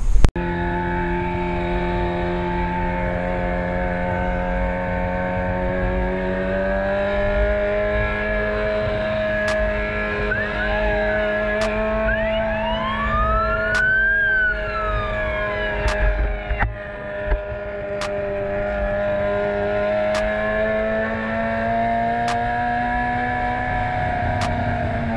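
Sport motorcycle engine running steadily at fairly high revs, its pitch drifting slowly up and down. About halfway through, a siren wails up and back down once.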